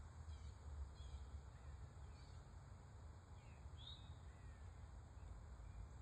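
Faint birdsong: a few short, high chirps, the clearest about four seconds in, over a low, steady rumble of distant traffic.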